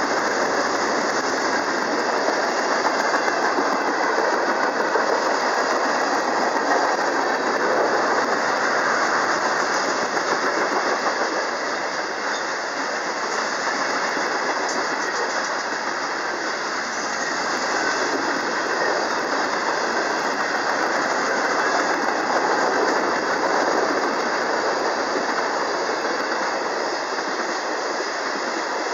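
Freight cars of a mixed freight train rolling past: steady noise of steel wheels running on the rails, unbroken throughout.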